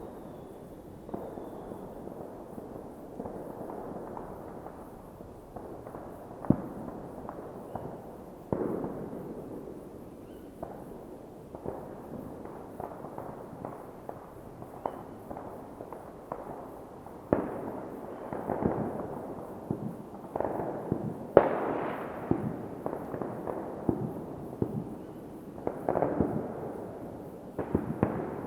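New Year's Eve fireworks going off all around: a steady rumble of distant bangs and crackling, with many sharper nearby cracks scattered through, the loudest about six seconds in and again near twenty-one seconds, and volleys coming thicker in the second half.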